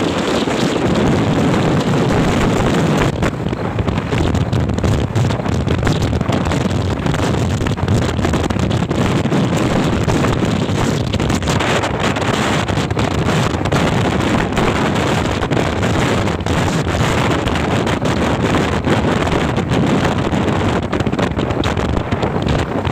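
Steady wind rush buffeting the microphone over a running motorcycle engine, as heard while riding.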